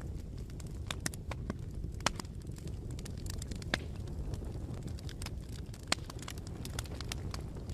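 Wood fire burning with a steady low roar of the flames and irregular sharp crackles and pops of burning wood, a few louder snaps among them.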